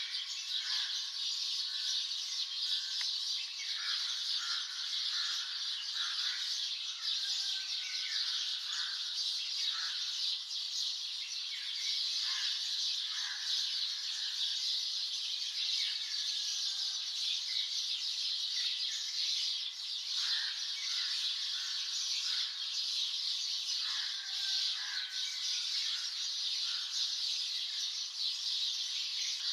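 Many birds chirping and calling together in a morning chorus: a continuous high wash of overlapping chirps, with separate shorter, lower calls scattered through it.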